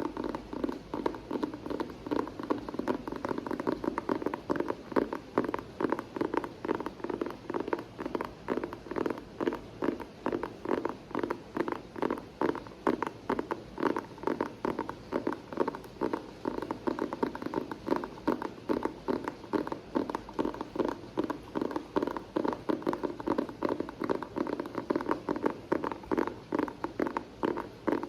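Fingers tapping steadily on a hard object for ASMR, a quick, even run of soft taps, several a second, with no pause.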